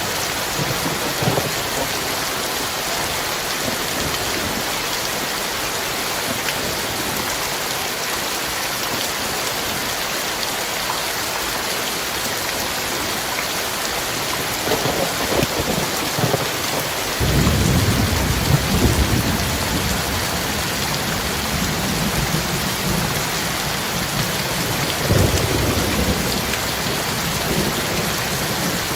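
Heavy rain falling steadily, with thunder rumbling in a little past halfway and again near the end.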